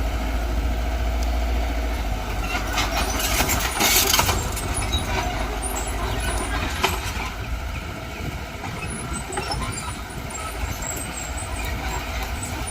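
Diesel engine of heavy earthmoving machinery running steadily under load, with a short burst of hissing noise about three to four seconds in.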